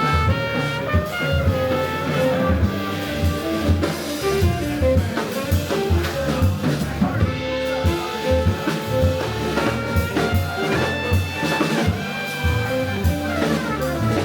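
Live jazz band playing: drum kit and cymbals keeping time under a bass line and a melodic lead of held, shifting notes.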